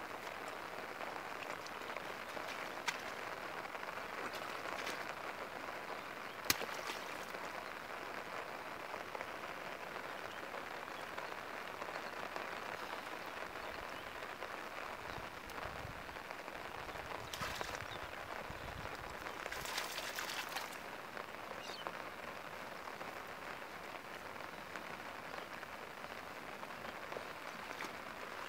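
Steady hiss of rain pattering on wet grass and shallow floodwater, with a couple of sharp clicks early on. About halfway through come splashing and sloshing in shallow water as a fish is grabbed by hand.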